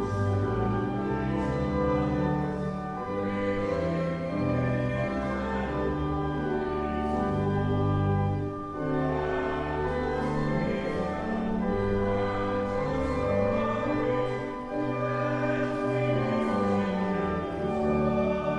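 A hymn sung with organ accompaniment: slow, held chords with a moving bass line.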